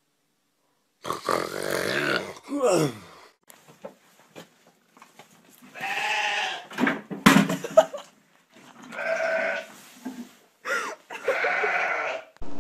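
A cat yowling: four loud, drawn-out wailing cries with pauses between them, plus a few sharp knocks in the middle.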